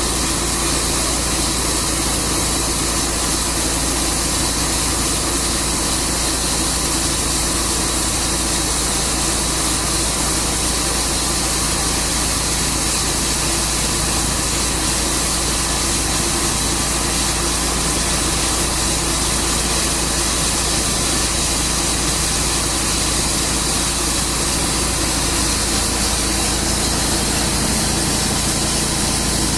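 Tru Cut sawmill's engine running steadily, holding the same pitch and level throughout.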